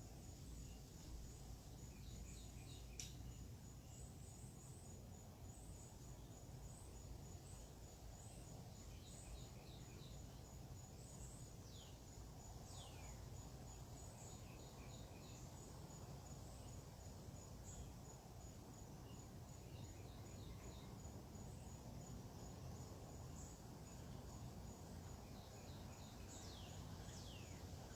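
Faint backyard birds calling: scattered short chirps and a few whistles that slide steeply downward, twice in pairs. Under them runs a steady, high, rapidly pulsing insect call over a low background rumble.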